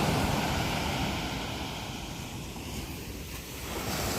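Ocean surf breaking and washing up the beach, with wind rumbling on the microphone. The rush is loudest at first, eases off, then swells again near the end as the next wave comes in.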